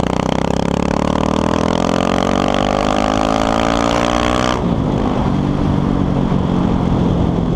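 Yamaha Lander 250's single-cylinder four-stroke engine under way, its pitch rising steadily as the bike accelerates, then dropping suddenly to a lower, steady note about two-thirds of the way through.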